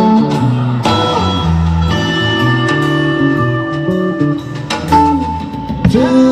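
Live band playing an instrumental passage: guitar lines with held notes over a moving bass line.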